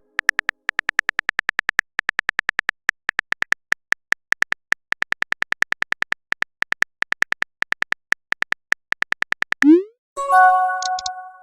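Texting-app sound effects: rapid electronic keyboard typing clicks, about eight a second in word-length runs, then near the end a short rising swoosh as a message is sent, followed by a ringing chime of several tones.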